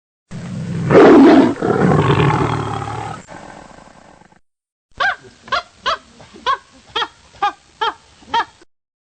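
A big cat gives one loud, long roar that fades away over about four seconds. After a short pause, another animal makes about eight short, pitched calls, roughly two a second.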